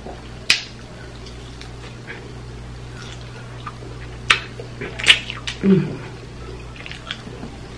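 Close-miked chewing of rib meat, with a few sharp mouth-smacking clicks and a short closed-mouth hum about two-thirds of the way through, over a steady low hum.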